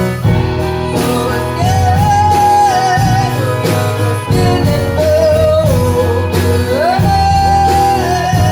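Live band playing a song: a singer holds long notes, one sliding up about two-thirds of the way through, over guitar, bass and drums.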